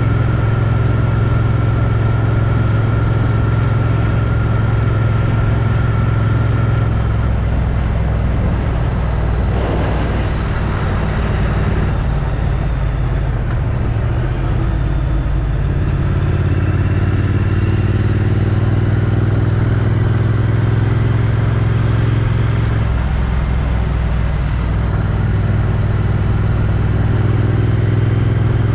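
Triumph Street Twin's 900 cc parallel-twin engine with its stock exhaust, heard from a helmet chin-mount camera while riding. The engine note is steady, eases off about seven seconds in and picks up again after about sixteen seconds. A brief rush of noise comes through about ten seconds in.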